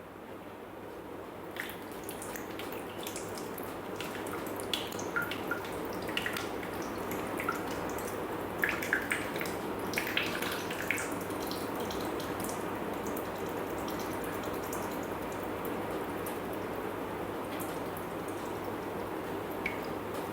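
Soy sauce poured from a bottle into the Thermomix bowl, running in a steady trickle with scattered drips and small splashes.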